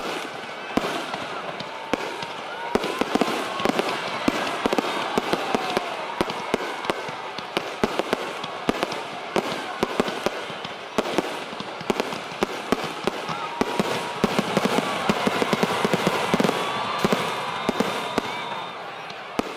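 Fireworks display: rapid crackling and popping of many shells going off, dense throughout, with a few whistles gliding up and down in pitch among the bangs.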